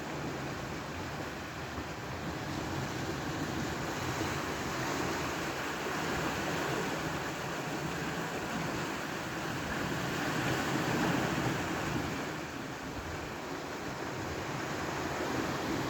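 Sea surf and wind noise: a steady wash that swells and eases every few seconds, with no speech.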